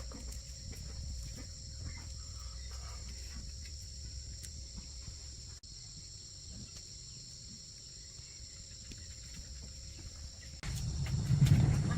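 Insects trilling steadily and high-pitched over a low rumble. A louder, deeper sound comes in shortly before the end.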